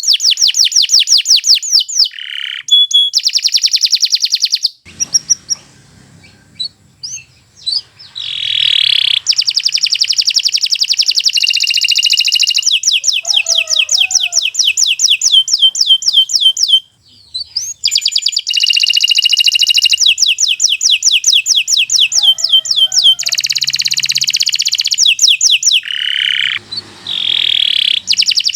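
Domestic canary singing long rolling trills of rapid repeated notes, phrase after phrase, with short breaks about five seconds in, near the middle and near the end.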